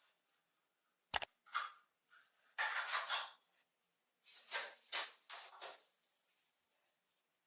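A sharp click about a second in, then several short scraping strokes that fade away near the end.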